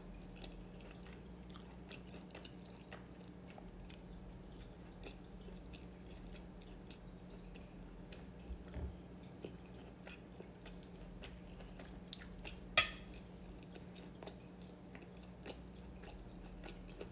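A person chewing food quietly, with faint small clicks and mouth sounds over a steady low hum. A single sharp click stands out about thirteen seconds in.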